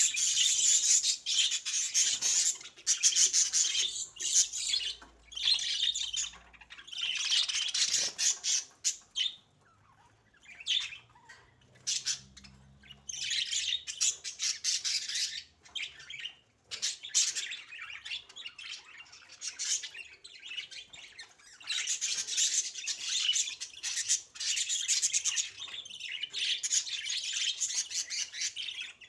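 Budgerigars chattering and warbling in rapid bursts of a few seconds each, with a quieter stretch in the middle.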